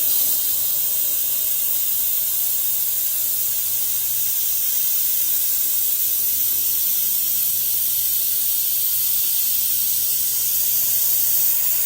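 Dual-action airbrush spraying thinned acrylic paint: a steady hiss of air that starts suddenly and holds even.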